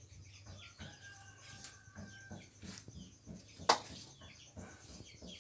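Birds chirping with many short falling calls, with a single sharp click about three and a half seconds in.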